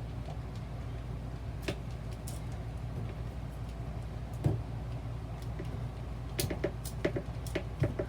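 Scattered small clicks and taps of a screwdriver working a worm-gear hose clamp onto an RV toilet's water valve spigot, over a steady low hum.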